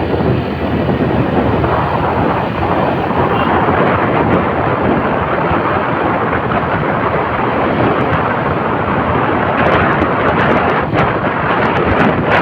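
Steady rush of wind on the microphone mixed with a motorcycle running at speed, with a few brief knocks near the end.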